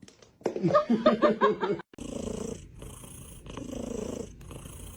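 Domestic cat purring close to the microphone, a rumble that swells and fades in even pulses with each breath, from about two seconds in. Just before it comes about a second and a half of short, quickly changing pitched sounds.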